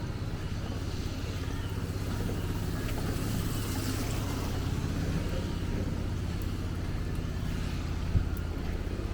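Steady low rumble of a motor vehicle running, under an even wash of street noise, with a single short knock near the end.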